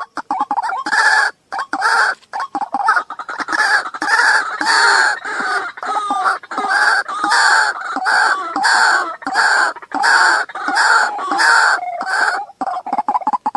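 Waterhen (jal murgi) calling in a long, even series of loud repeated notes, about two a second, which breaks off near the end.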